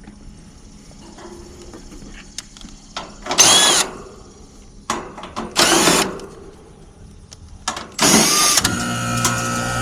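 A cordless drill runs in three short whirring bursts as it backs screws out of the heat pump's access panel. Near the end, the heat pump starts up, and its compressor and fan settle into a steady hum.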